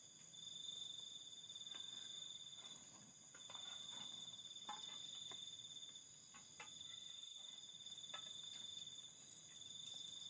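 Crickets chirping in steady high trills, each about two and a half seconds long with short breaks between them, over faint scattered small ticks.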